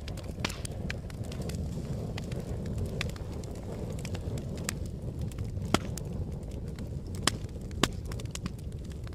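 Fire crackling: a steady low roar of flames with frequent sharp pops and snaps, three of them louder in the second half.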